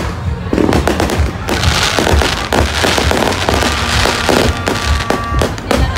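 Fireworks going off in rapid succession: many sharp bangs, with a stretch of dense crackling hiss in the middle.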